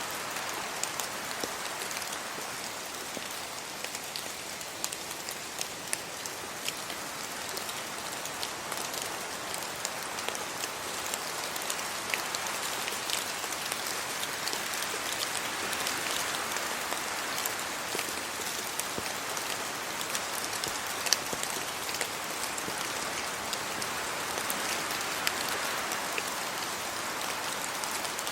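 Steady rainfall: an even hiss scattered with many sharp ticks of single drops striking.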